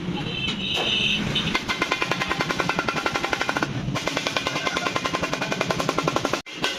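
A rapid, even run of sharp strikes, about ten a second, starting about a second and a half in and broken off briefly twice.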